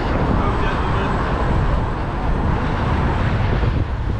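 Steady rushing wind noise on an action camera's microphone while cycling along a road, heavy at the bass end.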